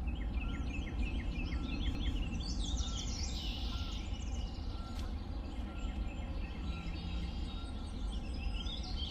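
Woodland birds singing and chirping: one repeats a short note roughly once a second while others add quicker, higher chirps and trills, over a steady low rumble.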